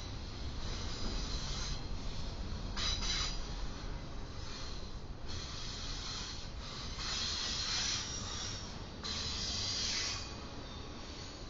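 Freight train cars rolling past: a steady low rumble with several stretches of high-pitched hiss from the wheels on the rails, each lasting about a second.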